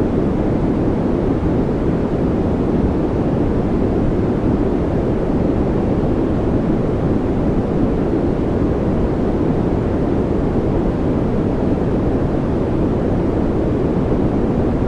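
Steady synthetic noise played as a sleep and focus sound: an even, unbroken rushing hiss, deep rather than bright, with most of its weight in the low range and little treble.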